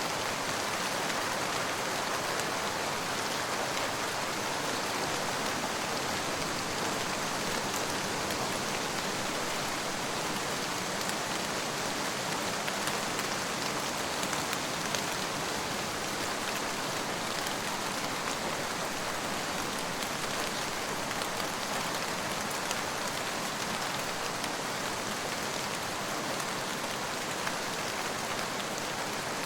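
Steady rain falling on a surface, a dense, even patter of drops without letup.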